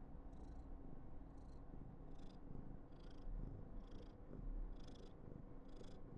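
Somali cat purring close to the microphone, a steady low rumble with a soft breathy hiss on each breath, a little more than once a second.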